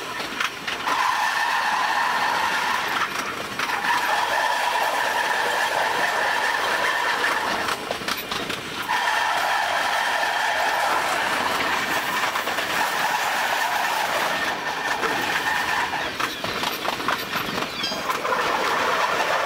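An E233-0 series electric commuter train running, heard from the driver's cab: a steady running noise carrying a high hum that drops out briefly a few times.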